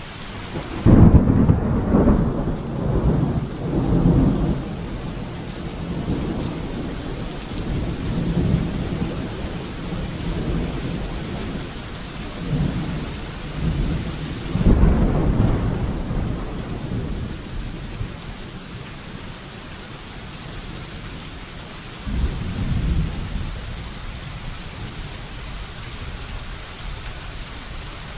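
Steady rain with rolling thunder in a thunderstorm. A loud rumble comes about a second in and rolls on for several seconds, with fainter rumbles after it. Another loud peal starts suddenly about halfway through, and a shorter rumble comes near the end.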